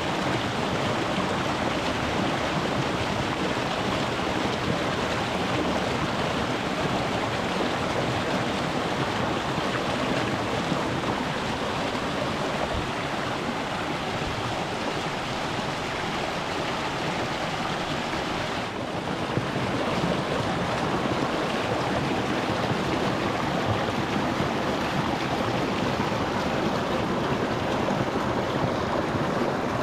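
Shallow rocky mountain stream rushing and splashing over stones in a steady, full rush of water. The level dips briefly about two-thirds of the way through.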